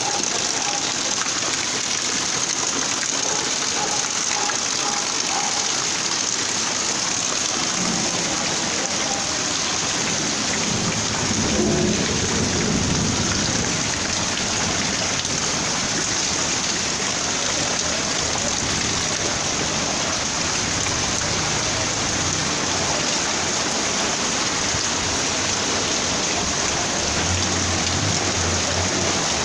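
Heavy rain pouring down steadily, with a low rumble rising briefly about twelve seconds in.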